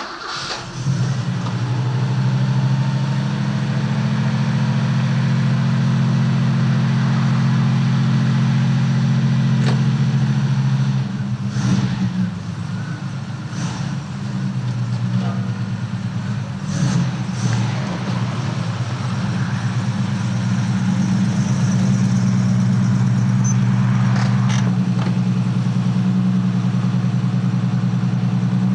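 Ford Capri 2.3-litre V6, with tubular headers and a modified rear silencer, catching as it starts and settling into a steady, deep idle through its exhaust. The idle wavers and dips for several seconds in the middle, then steadies again.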